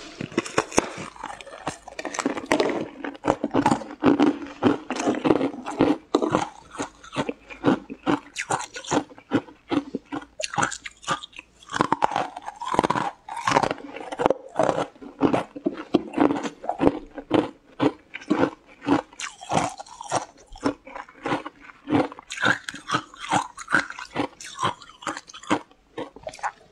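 Crisp crunching and chewing as a frost-covered frozen green slab is bitten into and chewed, a dense run of sharp crunches several a second.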